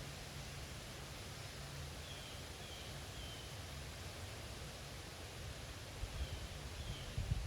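Wind through trees: a steady rustling hiss of leaves over a low rumble of wind buffeting the microphone, which turns gustier near the end. A bird chirps faintly several times, short falling notes.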